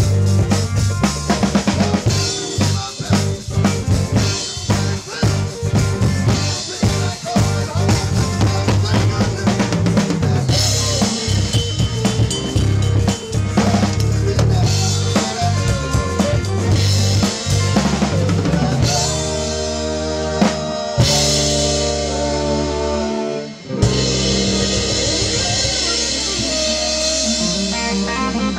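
Live rock band jamming on drum kit, bass and electric guitars, the drums busy with frequent snare and bass-drum hits. About two-thirds of the way in the hits thin out and the band holds sustained notes, with a brief drop about 23 seconds in before the notes come back.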